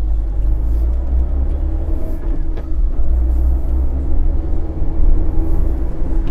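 Maruti Suzuki Eeco's 1.2-litre petrol engine pulling in second gear from about 20 km/h, a steady low rumble as the minivan picks up speed.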